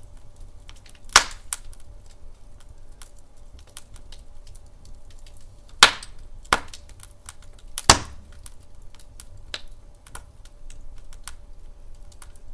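Wood fire burning in a fireplace, crackling with many small ticks and four sharp pops: one about a second in, then three close together a little past the middle.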